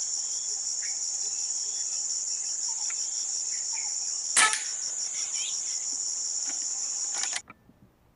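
Insects shrilling in a steady, high, pulsing drone; about four and a half seconds in a single sharp gunshot cracks out over it. Near the end all the sound cuts off abruptly.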